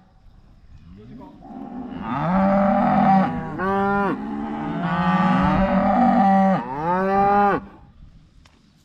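Wagyu cow mooing: one long, low call in several joined parts, starting about a second and a half in and stopping a second before the end, its last parts sweeping up in pitch.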